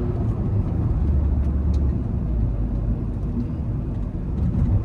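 Volkswagen Vento 1.5 TDI diesel car driving, heard from inside the cabin: a steady low engine drone and road rumble.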